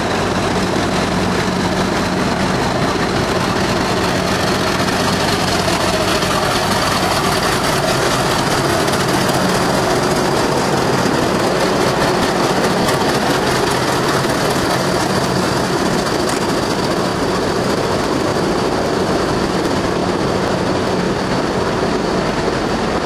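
Diesel locomotive running steadily, a constant low engine hum with a faint high whine above it.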